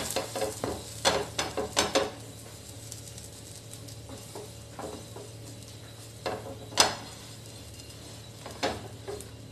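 Kulchas frying in butter on a hot tawa (flat griddle): a run of crackles and pops over the first two seconds while they are pressed down, then a quieter steady sizzle broken by a few sharp pops.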